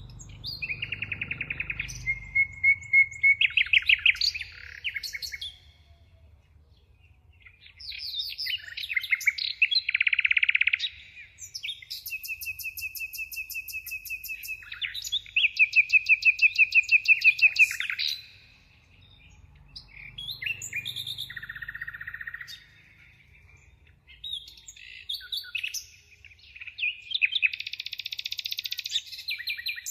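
Bird song: phrases of rapid, high trills and chirps with short pauses between them.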